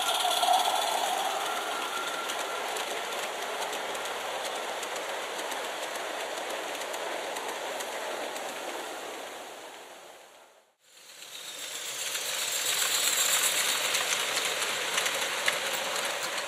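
Garden-scale model train running along the track, a steady clattering, hissing noise. It fades out about ten seconds in and fades back up soon after.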